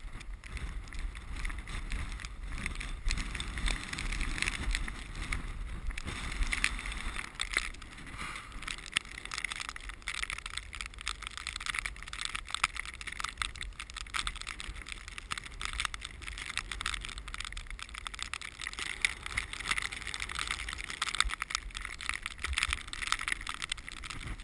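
Strong wind buffeting the microphone during a blizzard, a deep rumble under a dense crackling hiss, gusting up and down.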